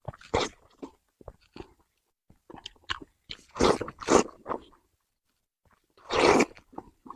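Close-miked mouth noises of someone eating braised pork: irregular chewing and smacking, with several louder bursts about halfway through and again near the end.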